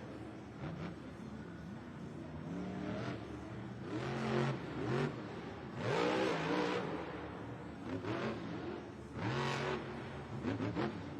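Monster truck's 1,500-horsepower engine revving hard in repeated surges, its pitch climbing and dropping. The loudest bursts come about four, six and nine and a half seconds in.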